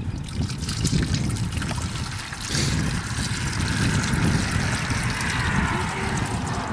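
Sugar-water syrup being poured from a container into a beehive's frame feeder: a steady trickling pour, with low wind rumble on the microphone underneath.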